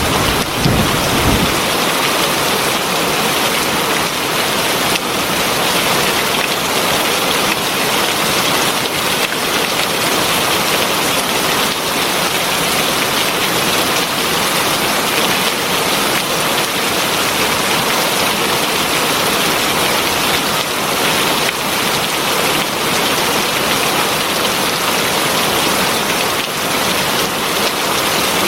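Heavy rain falling steadily, a dense, even hiss. A low rumble of thunder dies away in the first second or so.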